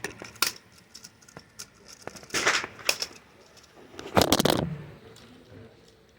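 A few sharp rifle reports at irregular intervals on a shooting range's firing line, the loudest about four seconds in.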